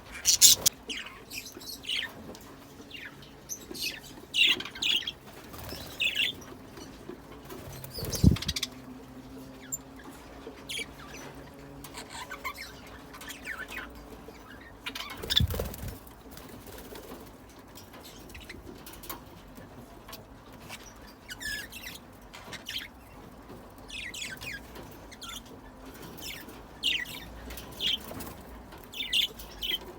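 Budgerigars chattering in short high chirps throughout, with wings flapping and two low thumps, about eight and fifteen seconds in.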